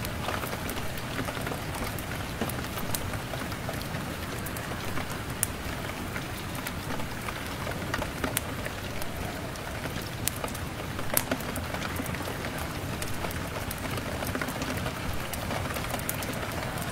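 Steady rain pattering on a window glass, an even hiss, with a wood fire crackling in the mix: scattered sharp pops and ticks, a few louder ones about midway.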